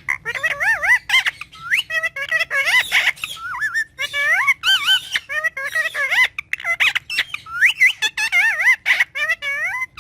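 Pet parrot chattering: a rapid run of wavering whistles, squeaks and clicks, like soft garbled talk.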